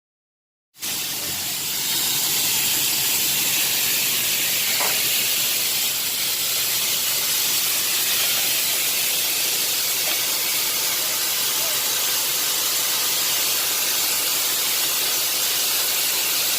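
A steady hiss of noise, strongest in the high range, that starts suddenly about a second in and holds even throughout.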